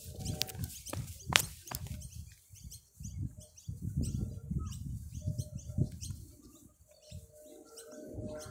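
Small birds chirping in many short, quick calls, over gusts of wind buffeting the microphone. A sharp tap about a second in is the loudest sound.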